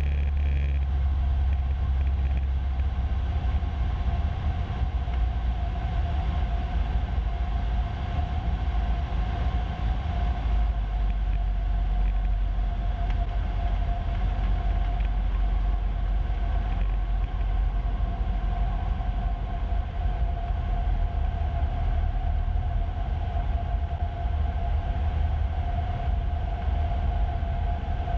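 Cessna 150's four-cylinder Continental O-200 piston engine and propeller droning steadily in the cockpit, heard through the headset intercom, with a steady low rumble and a thin whine above it.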